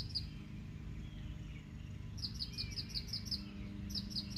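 A single bird chirping: short high notes, a pair at the start, then a quick run of about eight notes near the middle and a few more near the end, over a steady low background rumble.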